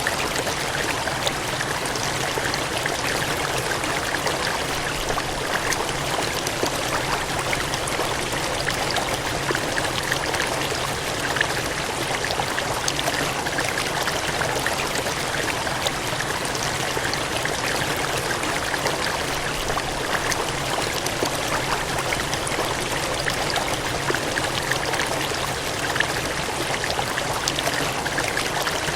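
Cascading water gushing steadily: an even, dense rush of water with small splashes scattered all through.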